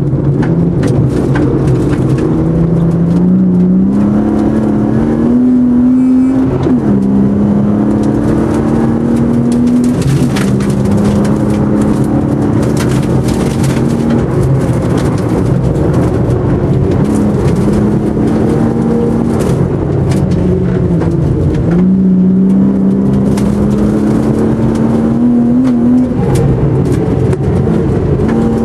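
Rally car engine heard from inside the cabin, pulling hard: its note climbs and then drops back at each gear change, several times over. Frequent clicks and knocks from the car's body run through it.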